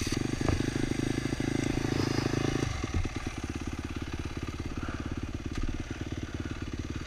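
Dirt bike engine catching and running just after a kickstart, at fast idle for about three seconds, then dropping to a slower, lumpy idle.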